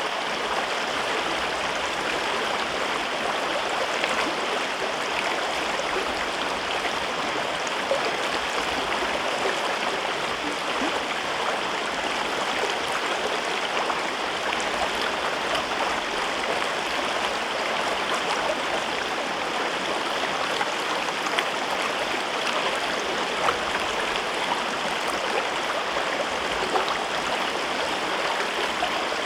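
A mountain river flowing over rocks in a gorge, with a steady rushing and small splashes.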